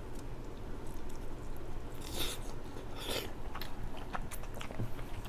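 Close-up chewing and wet mouth sounds of someone eating crab, with two louder noisy bursts about two and three seconds in.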